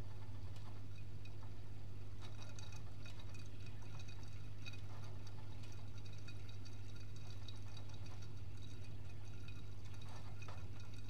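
Privileg Multispar 5110 washing machine in a 75 °C boil wash, standing between drum turns: a steady low hum with faint water sounds and light clicks.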